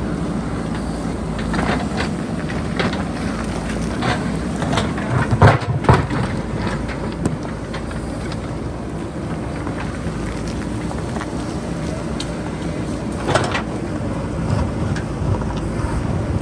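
JCB backhoe loader's diesel engine running steadily, with repeated knocks and clatters of the bucket working rock and boulders, the loudest about five and a half seconds in and again near thirteen seconds.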